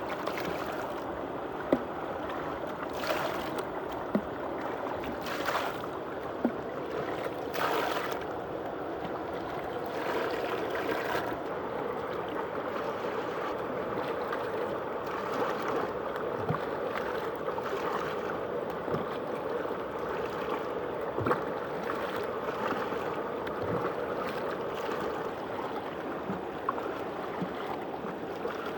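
Muddy water swirling and draining through a hole in a tube set among crushed stones: a steady rush of running water with scattered small clicks and drips.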